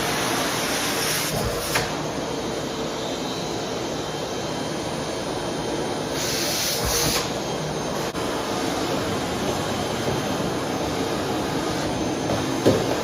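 Vacuum cleaner running steadily with a faint hum, its hiss growing brighter twice, at the start and again about halfway through; a short knock near the end.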